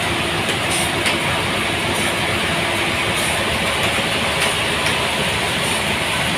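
Sawmill saw running steadily, cutting through a large trembesi (rain tree) log, a dense even machine noise.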